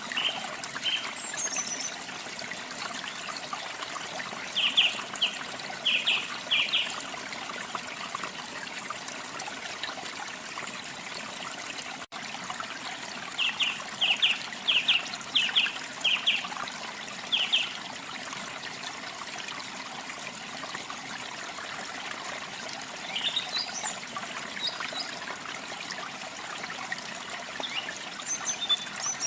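Water trickling steadily, with a bird calling in quick runs of short, sharp notes about five seconds in and again about fourteen seconds in, and scattered higher chirps near the end.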